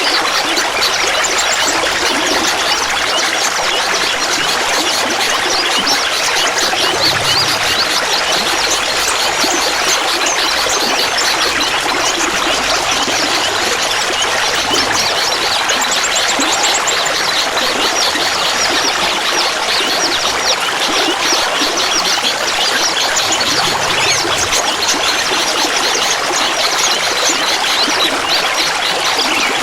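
Clear water trickling and babbling steadily, a dense, even splashing of many small droplets with no pauses.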